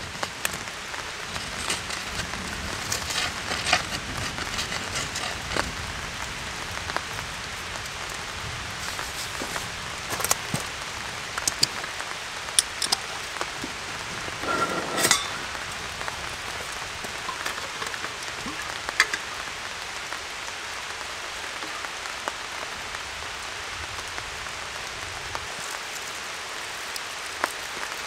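Steady rain falling, with many scattered sharp drop impacts and a louder cluster of them about halfway through.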